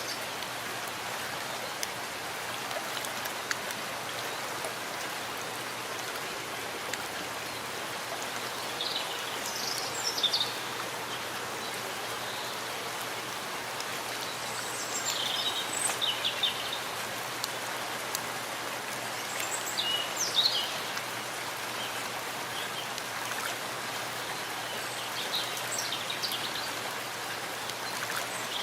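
Steady rain falling in a forest, an even hiss. A bird chirps briefly a few times over it, about a third of the way in, around the middle and near the end.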